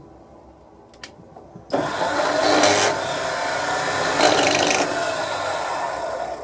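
A power tool's motor starts abruptly about two seconds in and runs steadily under load until near the end.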